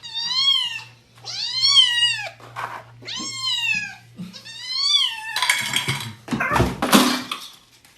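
A domestic cat meowing four times, each call about a second long, rising and then falling in pitch. Two short noisy bursts follow near the end.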